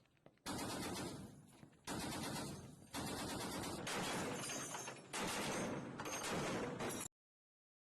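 Gunfire: four loud bursts of firing, each with a long rolling echo that fades before the next one starts. The sound cuts off suddenly near the end.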